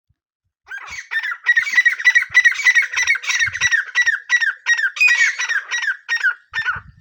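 Francolin (teetar) calling: a rapid, even series of short, harsh notes, about three a second, each dropping slightly in pitch, starting just under a second in and lasting about six seconds.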